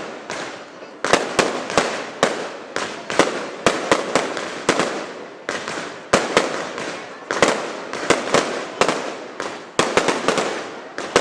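Fireworks display: firework shells going off in quick succession, sharp bangs about two or three a second, each trailing off in echo.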